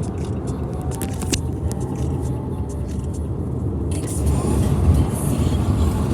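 Car driving: a steady low rumble of engine and road noise with scattered light clicks, growing a little hissier about two-thirds of the way through.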